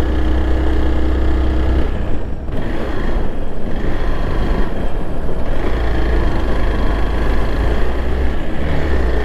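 Motorcycle engine running steadily under way, with a low rumble and rushing wind noise over the microphone.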